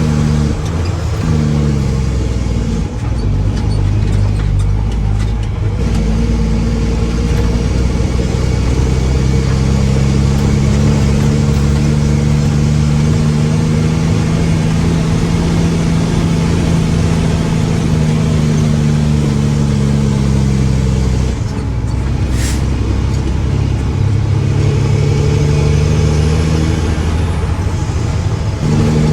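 Mack truck's diesel engine running under load with the revs changing: it settles, is held raised and steady for about twelve seconds, then drops back and picks up again near the end. A brief sharp hiss cuts in about 22 seconds in.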